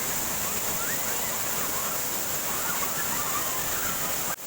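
Steady rush of flowing water, with a brief dropout near the end.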